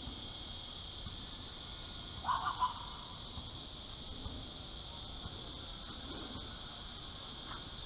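Steady high-pitched chorus of insects such as crickets, with a short three-pulse chirp about two seconds in.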